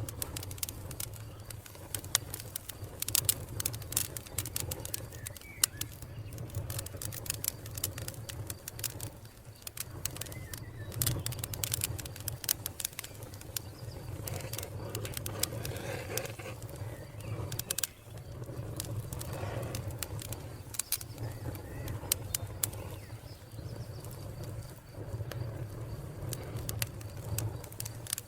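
Wood fire crackling with many sharp pops and snaps over a low, steady rumble, with birds calling faintly in the background.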